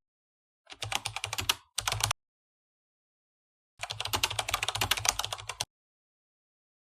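Computer keyboard typing sound effect: two quick runs of rapid key clicks, the first about a second and a half long with a brief break, the second about two seconds long, with dead silence between.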